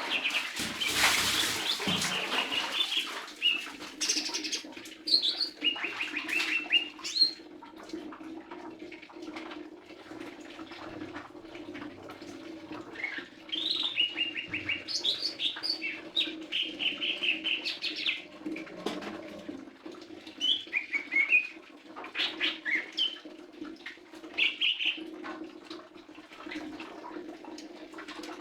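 Lesser green leafbird singing: bursts of rapid chirps and short trills, coming and going with short pauses. A noisy rustle in the first couple of seconds, and a steady low hum underneath.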